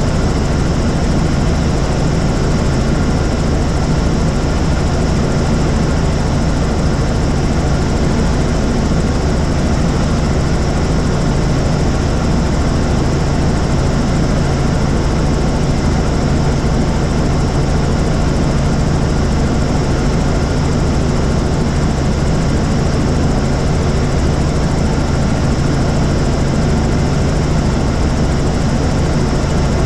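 Helicopter in flight, its engine and rotors making a loud, steady drone that does not change.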